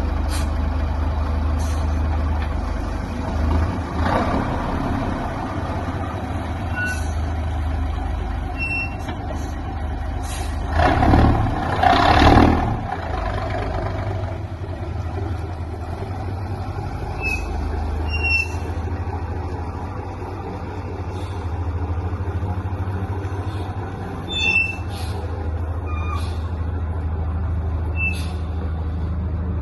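Scania L76 truck's diesel engine idling steadily, with a louder surge of noise about eleven seconds in.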